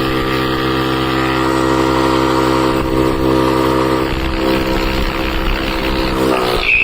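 A steady, loud motor drone with a strong pitched hum, briefly dropping away near the end.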